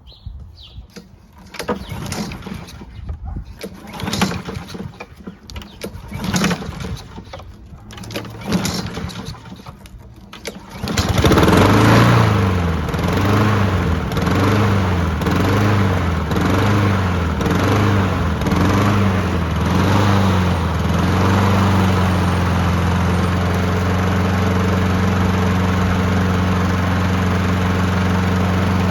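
Honda HRR216 lawn mower pull-started: several seconds of separate pulls on the recoil starter, then the engine catches about 11 seconds in. It surges, its speed rising and falling about once a second, then settles into a steady run.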